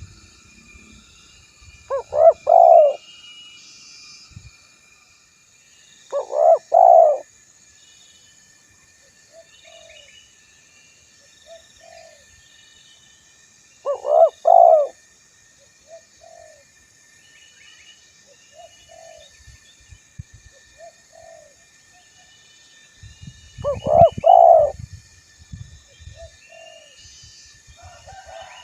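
Spotted dove (tekukur) cooing: four loud phrases of several coo notes each, a few seconds apart, with softer short coos in between. Faint high chirping runs in the background.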